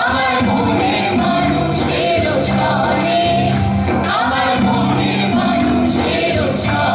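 Live folk song: voices singing a melody over instrumental accompaniment, with held low bass notes and occasional sharp percussion strikes.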